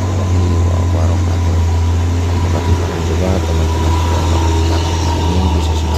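A vehicle engine running steadily, a deep even rumble with a faint higher whine over it.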